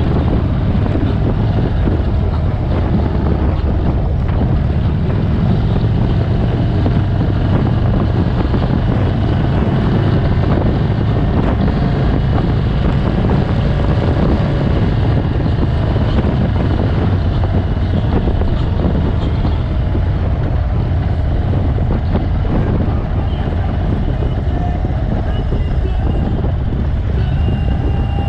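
Motorcycles running steadily on the road, with wind rushing over the microphone.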